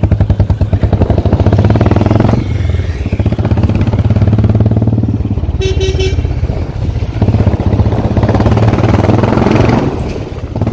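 Royal Enfield Bullet's single-cylinder engine running under way, a rapid, even pulsing thump that eases off briefly about two seconds in and again near the end. A vehicle horn honks once, briefly, about six seconds in.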